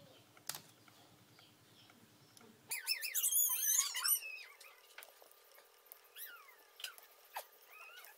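Birds chirping, with a loud burst of rapid rising-and-falling chirps about three seconds in and scattered chirps after it. A few sharp clicks also sound.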